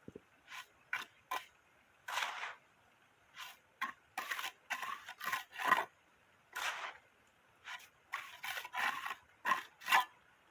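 About twenty short, irregular scraping strokes, some quick and some drawn out, with brief pauses between them.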